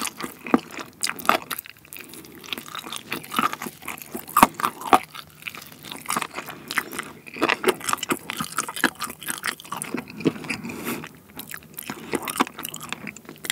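Close-miked chewing of sauced fried chicken: irregular crunching and crackling bites and mouth sounds, several per second.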